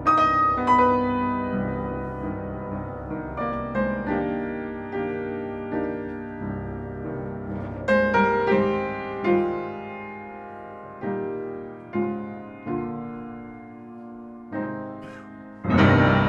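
Solo piano playing sparse single notes and chords, each struck and left to ring away, in a slow, free rhythm. Near the end a loud, dense passage of many notes bursts in.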